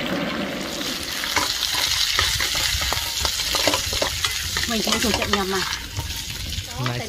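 Chicken pieces frying in hot oil in a wok: a steady sizzle, with a wooden spatula stirring and scraping the pan in many quick clicks and knocks.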